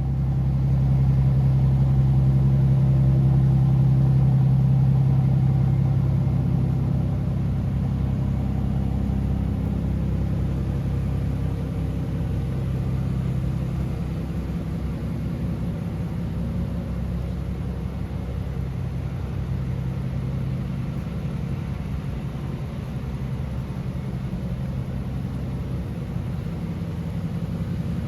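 Aston Martin DBS Superleggera's 5.2-litre twin-turbo V12 running just after starting, at a raised idle that drops about six seconds in and settles to a steady, lower idle.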